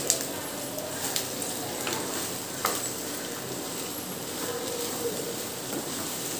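Eggs and green beans sizzling in hot oil in a nonstick kadai on high flame, stirred with a wooden spatula that knocks sharply against the pan a few times.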